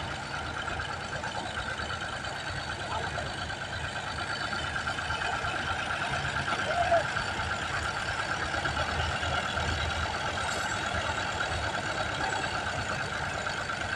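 Al-Ghazi tractor's diesel engine running steadily.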